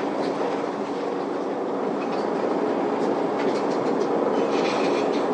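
Isuzu Erga city bus's straight-six diesel running, heard from inside the passenger cabin as a steady low hum, growing slightly louder about two seconds in, with light clicks and rattles.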